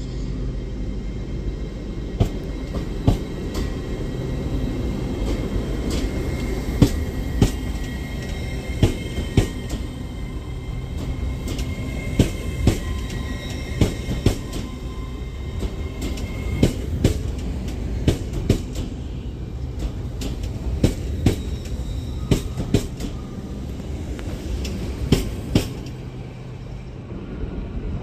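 TransPennine Express Class 802 bi-mode train pulling out of the platform: a steady low running rumble with irregular sharp clicks of its wheels over rail joints and points. A thin high tone sounds until a little past halfway, and the rumble fades near the end as the train draws away.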